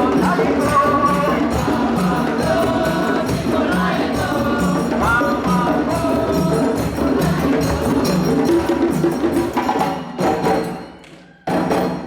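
Parade music of drums and group singing, a chanted African song with a steady driving beat. The music breaks off about ten seconds in, and a single sharp drum hit comes near the end.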